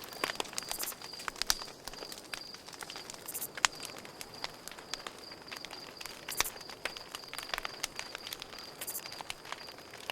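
Campfire crackling, with sharp pops at irregular intervals, the loudest about a second and a half, three and a half, and six and a half seconds in. Behind it a cricket chirps in a high, steady, rapidly pulsing trill.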